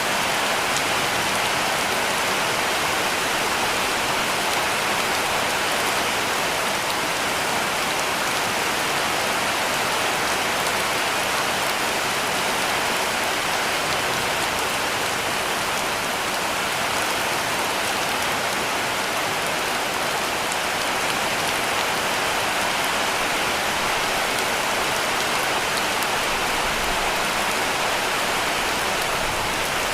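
Heavy rain falling steadily on a cabin roof, an even, unbroken hiss.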